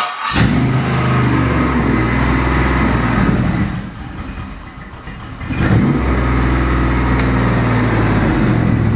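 Gen 3 Chevy 5.3L Vortec LM7 V8 cold start: it fires right away and runs steadily at idle. The level drops about four seconds in and rises sharply again near six seconds.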